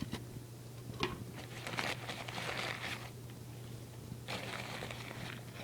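Packing material being handled in a shipping box: crinkling and rustling in two stretches, with a couple of sharp clicks before them.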